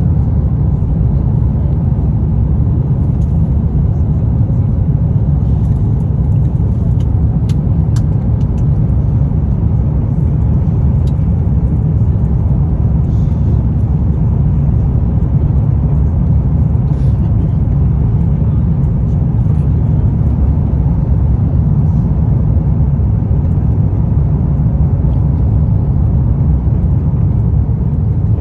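Airbus A350 passenger cabin noise on approach: a steady low rumble of airflow and engines, with a few faint clicks a few seconds in.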